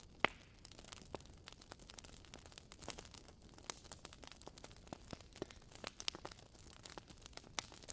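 Firewood burning in a fireplace, crackling with irregular sharp pops and snaps over a faint hiss; the loudest pop comes about a quarter second in.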